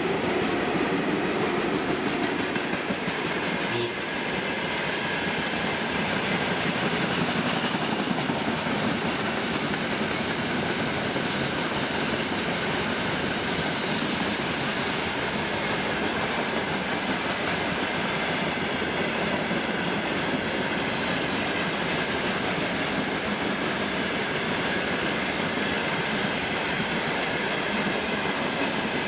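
Freight train of covered hopper wagons rolling steadily past, its wheels running over the rails, after a VL10 electric locomotive.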